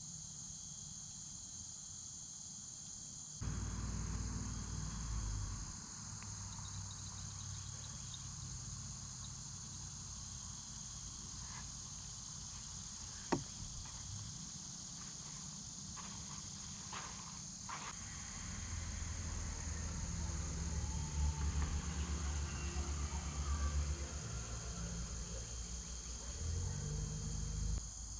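Steady high-pitched insect chorus carrying on throughout. Bouts of low rumbling come and go, loudest in the second half, and there is one sharp click about halfway through.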